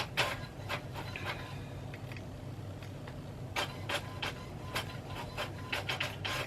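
Printer running as it prints invoices: a steady low hum with irregular sharp clicks and clacks from the paper feed, busiest in the second half.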